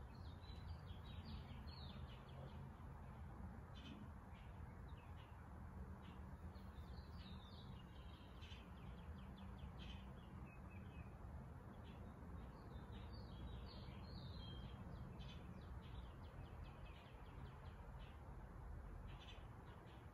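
Faint birds chirping in short, scattered calls throughout, over a low steady background hum.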